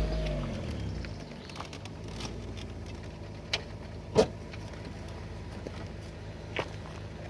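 Car engine slowing and fading over the first second or so, then idling steadily, with a few short sharp clicks, the loudest about four seconds in.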